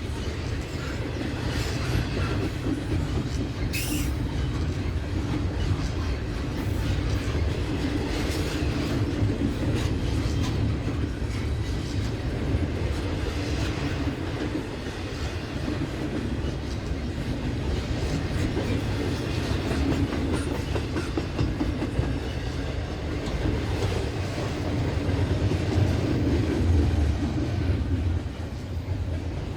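Freight train rolling past: a steady rumble of the cars' wheels on the rails, with scattered clicks and clacks over rail joints.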